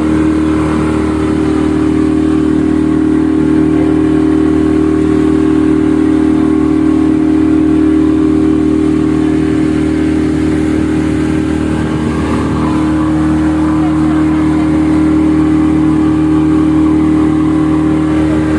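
Motorboat engine running steadily at cruising speed, a constant droning hum.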